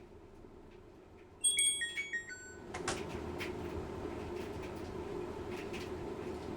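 Washing machine's electronic chime, a short run of beeps stepping down in pitch, followed by a click and the machine starting to run with a steady hum and louder running noise.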